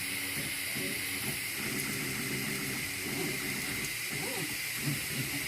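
3D printer running a print: its stepper motors sing in short tones that keep shifting in pitch as the axes move, over a steady hiss from its cooling fans.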